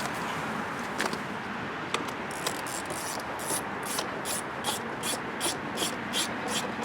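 Rhythmic rubbing strokes on a surface, about two or three a second, starting a couple of seconds in, after a few single clicks.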